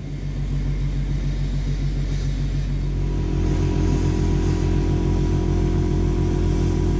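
An electric power tool's motor running steadily with a low hum. About three seconds in it gets louder and takes on a clearer, steady tone.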